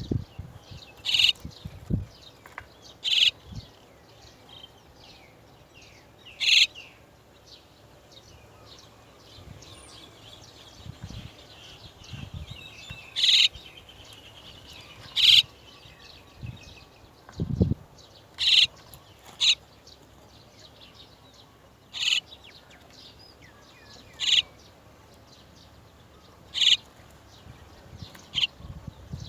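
Chestnut-tailed starlings at the nest giving short, sharp calls, repeated every one to three seconds, with softer chattering partway through. A low thump sounds once, a little past halfway.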